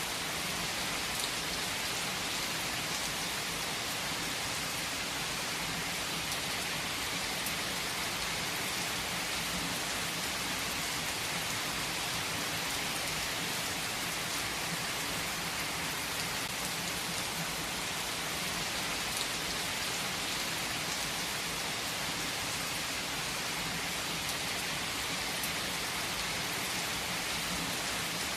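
Heavy rain falling steadily on surfaces, an even hiss with scattered drop ticks.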